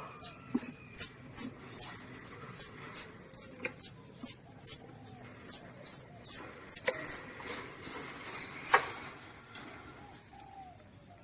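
Young Asian palm civet (luwak) calling: a rapid series of short, high-pitched squeaks, each falling in pitch, about two to three a second. The squeaking stops about two seconds before the end.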